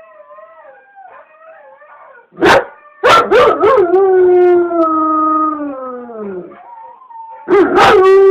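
Dog howling in response to a siren: a faint wavering wail, then a sharp bark about two and a half seconds in, followed by a long loud howl that slowly falls in pitch. A second loud howl starts near the end.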